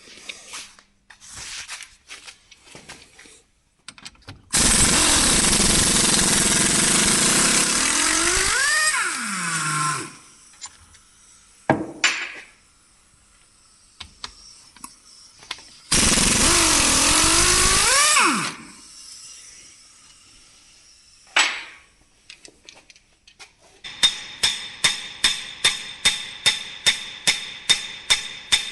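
Air-powered tool, likely an impact wrench on the hub bolts, running in two long bursts, each ending in a swooping change of pitch as the motor spins down, with a few sharp knocks between. Near the end comes a fast, even run of metallic strikes, about three or four a second.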